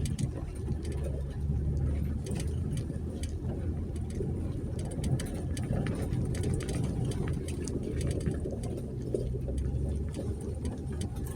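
2020 Jeep Gladiator's 3.6-litre V6 running at low trail speed on a dirt track, a steady low hum, with scattered sharp clicks and knocks throughout.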